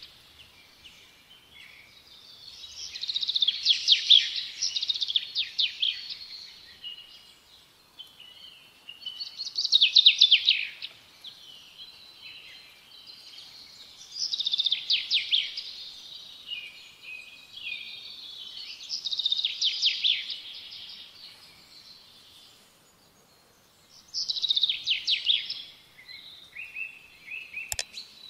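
Birdsong: bouts of rapid, trilled chirping phrases about two seconds long, repeating every four to five seconds. A single sharp click sounds near the end.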